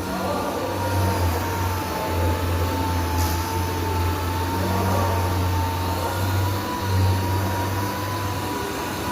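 A power orbital sander running steadily against a car body panel, sanding off epoxy primer. It gives a constant high whine over a low hum and the rasp of the abrasive, with the hum swelling and easing slightly as the pad is worked across the panel.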